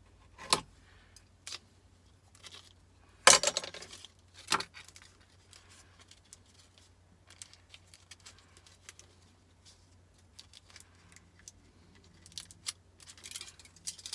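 Sharp clinks and clatters of small metal and plastic pieces of a dismantled capacitor, with its aluminium casing and foil, being handled and set down on a workbench. The loudest clatter comes about three seconds in, with lighter clicks before and after it.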